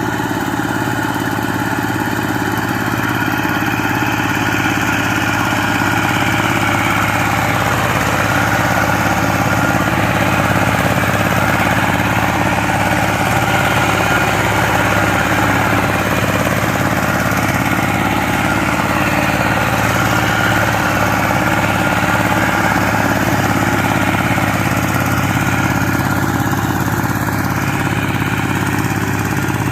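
Power tiller engine running steadily at an even speed.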